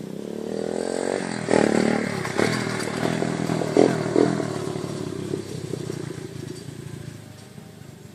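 Dirt bike engine revving up and accelerating. It gets louder over the first couple of seconds, with several sharp surges, then slowly fades away.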